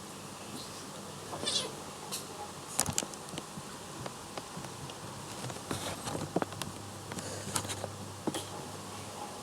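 Domestic cat making small vocal sounds amid scattered light clicks and taps, over a steady low hum.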